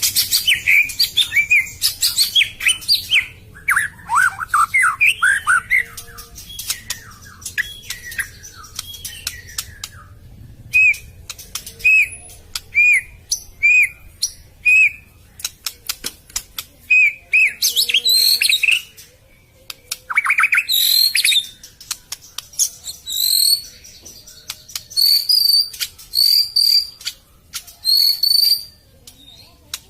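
White-rumped shama (murai batu) singing a varied song: quick swooping, chattering phrases, then a run of single repeated notes about one a second, and clear high whistles near the end, with sharp clicks among the phrases.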